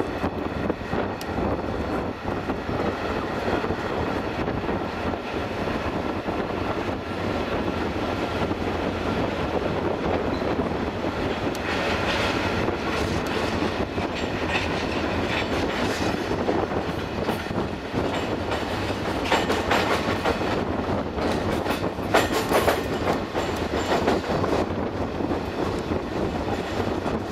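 Passenger train running through a station yard, heard from inside the carriage: a steady rumble of wheels on rail, with repeated clicks and knocks as the wheels cross rail joints and points, thickest in the second half.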